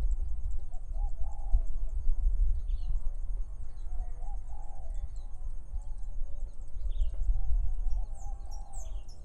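Small birds chirping in short calls every second or two, with a lower warbling call and a quick flurry of high chirps near the end, over a steady low rumble of wind on the microphone in open rice-field countryside.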